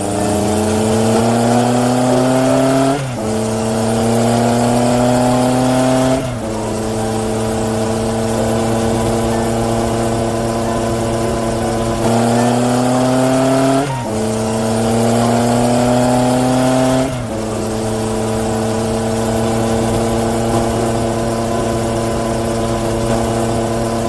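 An engine speeding up, its pitch rising, dropping suddenly as at a gear change, rising again and then holding steady; the same run repeats about twelve seconds in.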